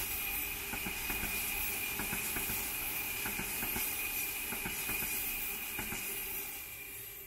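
Electric passenger train rolling past: a steady hiss with a high whine and scattered clicks from the wheels on the rails. It fades away near the end as the last car goes by.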